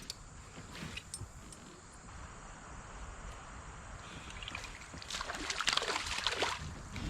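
Creek water splashing and sloshing around a kayak's plastic hull as it drifts. The splashing grows louder and busier for about two seconds near the end.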